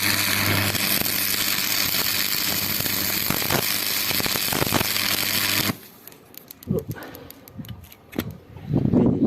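Welding arc from a TD-500 welding transformer on its low-current range, burning steadily: a loud, even crackling hiss with a mains hum under it, cutting off suddenly about six seconds in. Faint scattered ticks follow, with a louder stretch of noise near the end.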